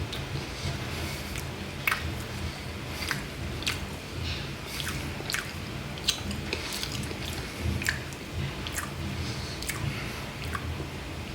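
A person chewing a wafer Kit Kat bar close to the microphone, with irregular crisp crunches throughout.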